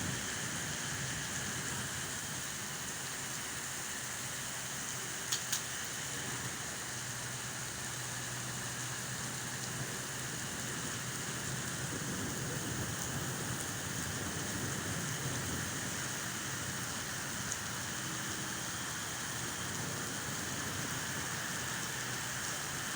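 Steady rain falling, an even, continuous hiss, with two sharp ticks about five seconds in.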